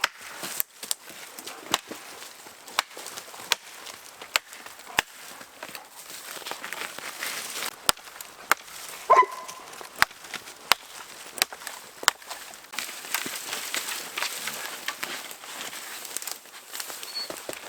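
Axe chopping up a fallen aspen top, with steady strokes about one a second. A short squeal cuts in once, about nine seconds in.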